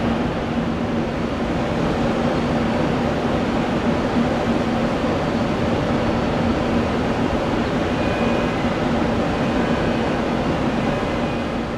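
Steady roar of jet aircraft engines at the airport, with a steady low hum running under it.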